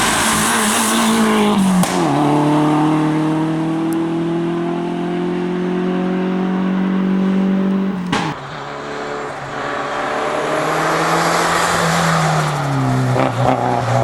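Toyota Celica rally car engine under hard acceleration, its pitch climbing through the gears with an upshift about two seconds in and another with a sharp crack about eight seconds in, then easing off and dropping near the end.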